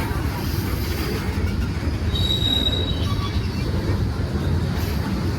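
Train rolling past with a steady low rumble of wheels on rail; about two seconds in, a brief high-pitched wheel squeal rings out for around a second.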